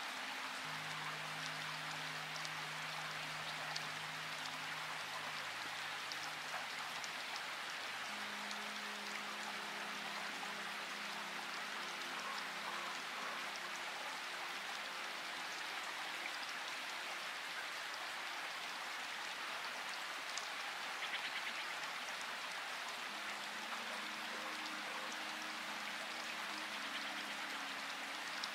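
Steady rainfall, an even hiss of rain with small drops pattering. Faint low held notes sit underneath, shifting every several seconds like a soft musical drone.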